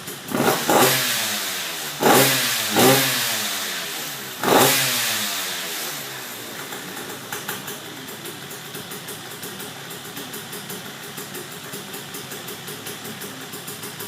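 Two-stroke KTM 85 engine in a Yamaha Blaster quad revved in four sharp throttle blips, each dropping back quickly in pitch, then settling to a steady idle for the rest of the time.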